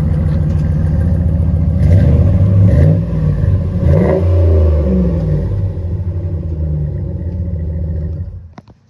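5.7-litre Hemi V8 running through its newly reworked exhaust, revved up and back down a few times, then shut off near the end. The owner says a manifold leak can be heard in its sound, the well-known 5.7 Hemi tick.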